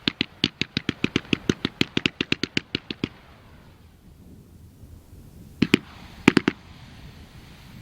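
Aerial zipper firework shell going off as a rapid string of sharp cracks, about eight a second, that stops about three seconds in; two short clusters of cracks follow a little past the middle.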